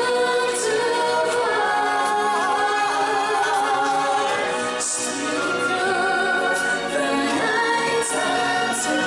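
Music with a group of voices singing together in long held notes.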